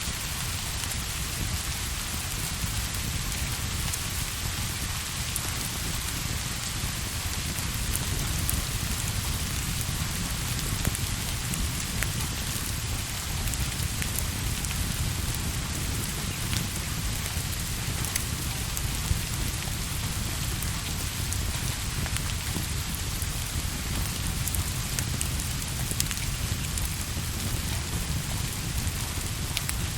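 Steady heavy rain falling on a surface, an even hiss with a low rumble underneath and scattered sharp ticks from drops or crackles.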